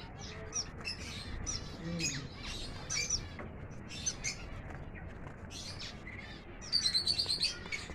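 A mixed flock of captive finches chirping in breeding aviaries: many short, high calls overlapping throughout, with a quick run of calls near the end.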